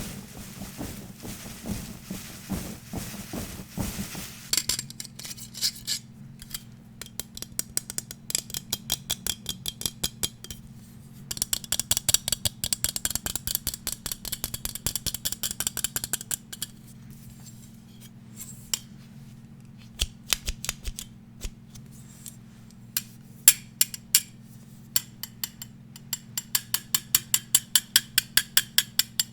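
Rapid tapping on small hard objects for ASMR: a scratchy rubbing for the first few seconds, then quick runs of sharp clicks in bursts with short pauses between them. A faint steady low hum sits underneath.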